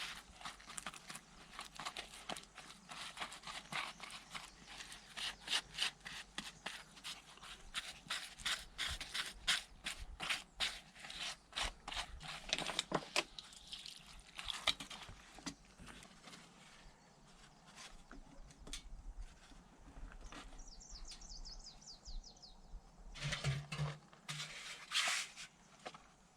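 Quick irregular clicks and knocks with some scraping, dense through the first half and then thinning out. A short run of high, falling chirps comes about two-thirds of the way in, and a few louder knocks follow near the end.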